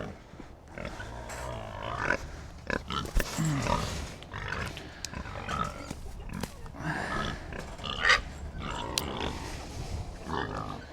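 Pigs grunting in short, scattered calls, with knocks and rustling in between.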